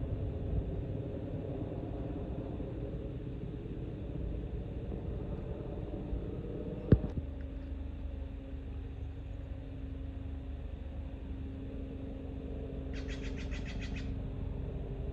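Steady low rumble, with a single sharp click about seven seconds in. Near the end comes one harsh, rasping call about a second long from a Steller's jay.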